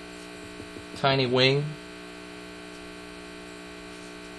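Steady electrical mains hum, a buzz of several fixed tones in the recording, with a man's voice saying one word about a second in.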